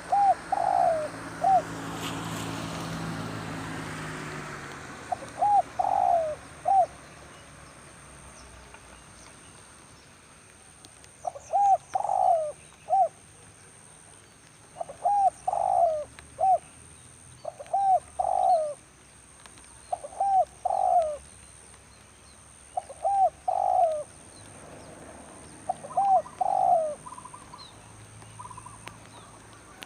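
Spotted dove cooing: about eight short phrases of three or four rolling coos, repeated every few seconds. A swell of noise comes and goes in the first few seconds.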